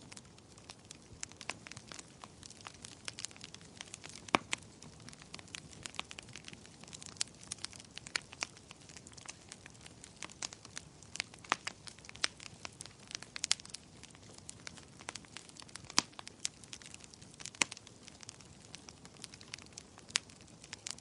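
Wood fire crackling in a fireplace: irregular sharp pops and snaps, a few each second, over a soft steady rush of the flames.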